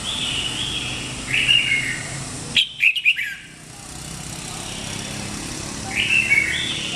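Red-whiskered bulbul singing short warbled phrases, four in all, with a louder burst of sharp notes near the middle.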